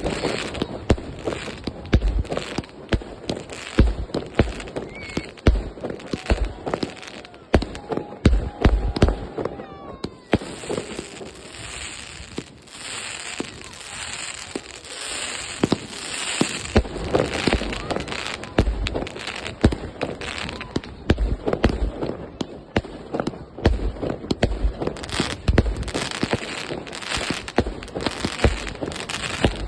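Fireworks going off: a dense, irregular string of sharp bangs and crackles. There is a brief lull about ten seconds in.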